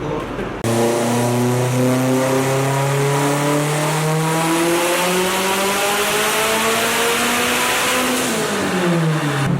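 Turbocharged car engine in a full-throttle pull on a chassis dyno. The revs climb steadily for about seven seconds, then drop away near the end as the throttle is lifted.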